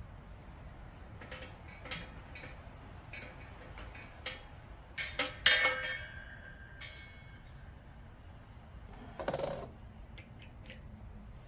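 Small steel rocker-arm parts and tools being handled. There are light clicks and clinks, then a cluster of sharp metal clinks about five seconds in that rings on briefly, and a duller knock near nine seconds.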